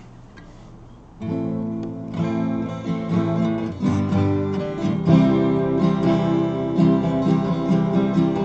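A 12-string acoustic guitar starts strummed chords about a second in and keeps a steady strumming pattern: the instrumental intro to a song, freshly tuned.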